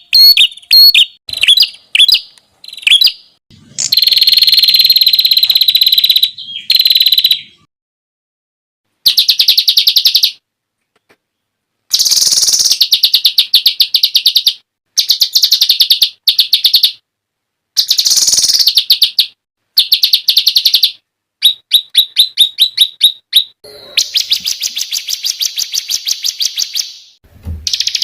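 Songbird song edited into loud bursts of rapid, sharp staccato trills and rattles ('tembakan'), each burst lasting a second or few and cut off abruptly into silence before the next. The phrases are high-pitched and made of fast repeated notes, the kind of material used to train songbirds for singing contests.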